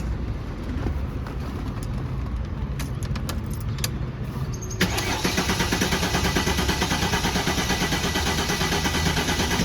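Mercedes-Benz CLK350's starter cranking its 3.5-litre V6, which turns over with an even, fast chugging but does not fire. The fuel pump relay has been pulled, so the engine is cranked on purpose to bleed off fuel-rail pressure. The cranking starts suddenly about five seconds in, after a low rumble and a few clicks.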